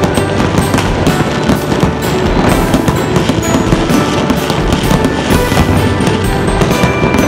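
Fireworks bursting and crackling densely, many small sharp cracks in quick, irregular succession, heard together with music.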